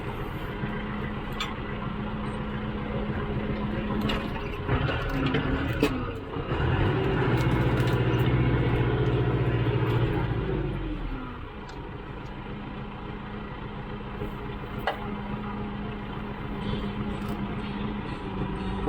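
Tractor diesel engine running steadily. About five seconds in it speeds up under load for several seconds, then falls back to its earlier speed with a falling pitch. A few short knocks are heard.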